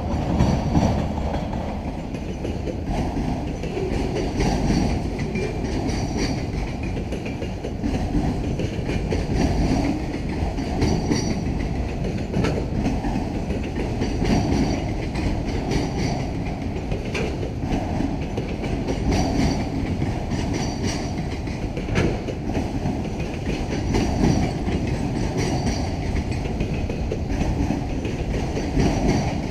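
Union Pacific train cars rolling past: a steady rumble of wheels on rail, with a rhythmic clickety-clack as the wheel sets cross rail joints in pairs every second or two.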